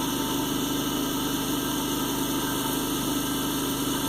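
Generator engine running at a steady speed, powering an electric pump on a well.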